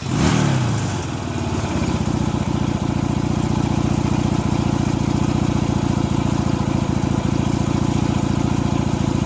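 Motorcycle engine sound: a brief rev that falls away over the first couple of seconds, then a steady idle with a fast, even putter.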